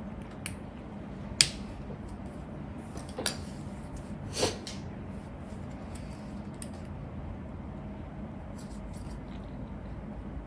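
Plastic Lego pieces being handled and snapped together: a few sharp clicks, the loudest about a second and a half in, with fainter taps between, over a steady low hum.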